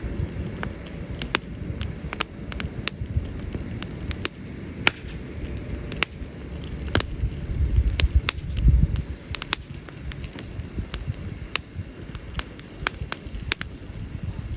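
Wood campfire crackling, with frequent sharp irregular pops and snaps over a steady low rumble that swells briefly about eight seconds in.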